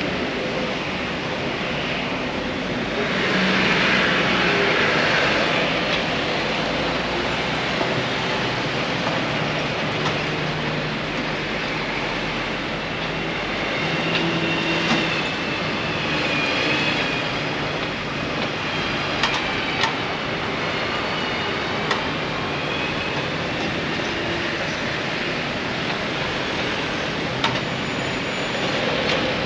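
Busy city street noise: a steady wash of traffic, with a faint high squeal like brakes or wheels in the middle and a few sharp knocks.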